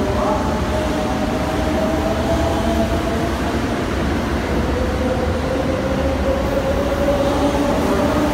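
White limited-express electric train running along a station platform: a steady rumble of wheels and running gear with a faint motor whine that slides gently upward in the second half.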